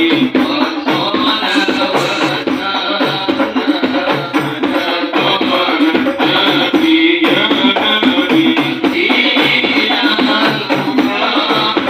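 Hadroh ensemble playing: frame drums (rebana) beating a steady, fast repeating rhythm with other percussion over it.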